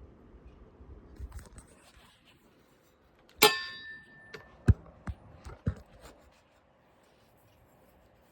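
Small hard parts being handled and set down: one sharp clink that rings briefly about three and a half seconds in, then four shorter knocks a second or two later.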